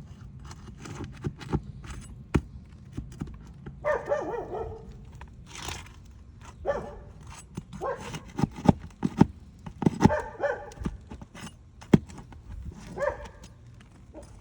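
A dog barking about five times, among scattered sharp clicks and knocks from handling the roof shingles.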